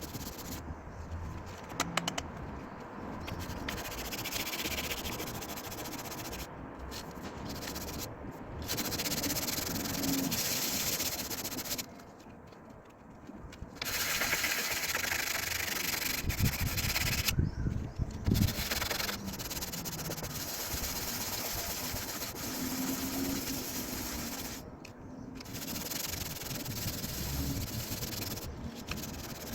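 Sandpaper rubbed by hand over the steel body panels of a VW Golf 2, taking off rust down to bare metal, in spells of rasping strokes broken by brief pauses.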